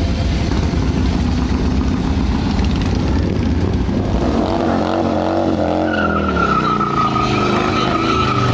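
Motorcycle engines rumbling. About halfway through, an engine revs up and down, and from about six seconds in a high, steady squeal joins it.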